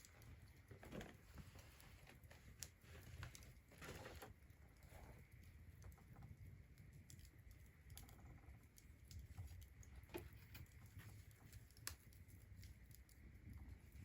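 Faint, irregular crackling and popping of a wood fire, scattered single clicks over a low background hum.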